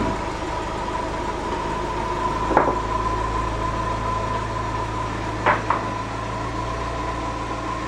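Subaru Legacy's flat-four engine running steadily through a newly fitted exhaust (catalytic converter, resonator and muffler), with a low hum and a steady high tone. A sharp knock comes about a third of the way in and two more close together about two-thirds in.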